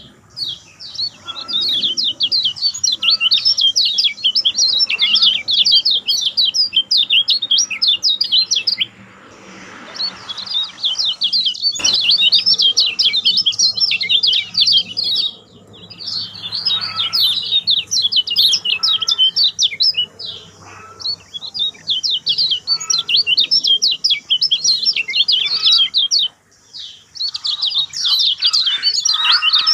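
A kecial kuning white-eye singing in long, rapid, jumbled runs of high chirping notes, broken by a few short pauses.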